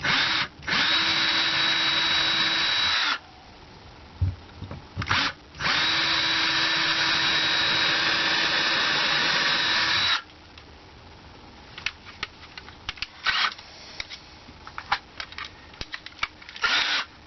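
Power drill running while drilling into a wooden backstop board, in two long steady runs of about three and four and a half seconds with a short burst between them. Then come scattered clicks and a few brief bursts.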